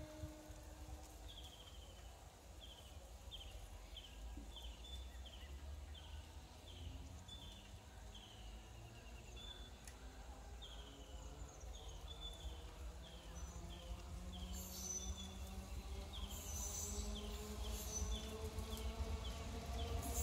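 Electric multiple-unit local train approaching from a distance: a faint low rumble, with a slowly rising motor whine and some rail noise that grow louder over the last several seconds. Through most of it, a small bird repeats short, high, falling chirps.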